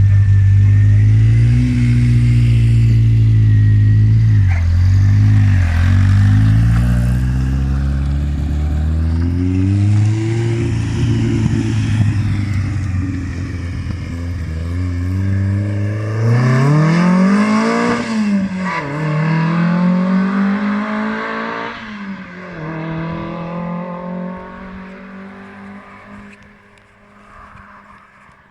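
Škoda 130 RS rally car's racing engine revving hard, its pitch climbing and dropping sharply several times as through gear changes, then fading away steadily over the last ten seconds or so as the car drives off into the distance.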